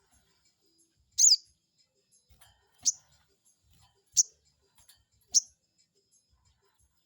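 Sogon bird giving four short, sharp high-pitched calls about a second and a half apart, the first with a quick falling slur. It is a lure call meant to rouse a rival sogon into answering.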